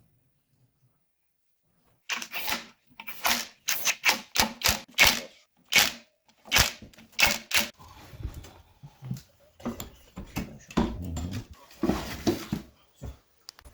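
Workshop clatter from about two seconds in: sharp, irregular clicks and knocks of metal tools and engine parts being handled during engine assembly.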